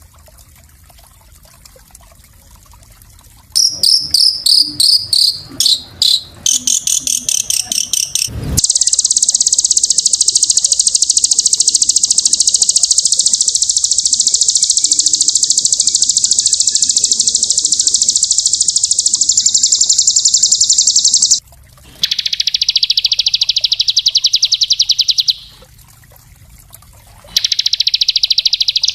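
Small songbird singing high, very fast, tightly packed trills in the rapid-fire 'tembakan' style. A few seconds of quick chattering notes lead into one long unbroken trill of about thirteen seconds, then two shorter trills with brief pauses between.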